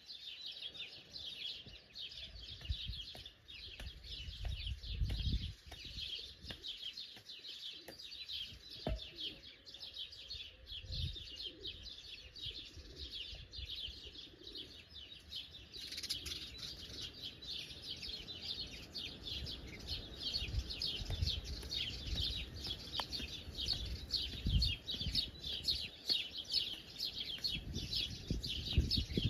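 A dense chorus of many birds chirping rapidly and without pause. Low rumbles come and go underneath.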